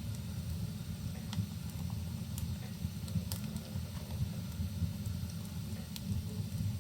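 Wood fire crackling in a fireplace, with several sharp pops scattered through, over a steady low rumble and a soft rain hiss.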